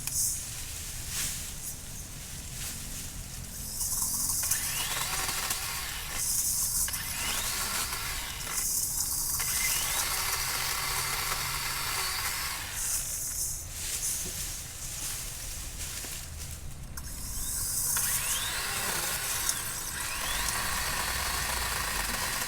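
DeWalt DCCS620 20V MAX cordless brushless chainsaw cutting dry branches in repeated bursts of one to three seconds, with short pauses between cuts.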